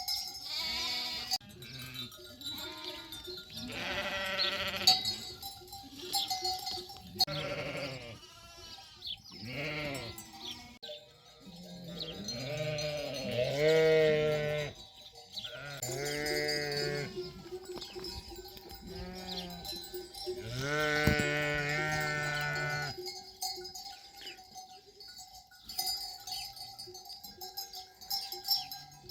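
A flock of sheep and lambs bleating, a dozen or so calls, some deep and some high, overlapping, with the longest and loudest calls about two-thirds of the way through. Sheep bells tinkle throughout, and the bleating thins out near the end.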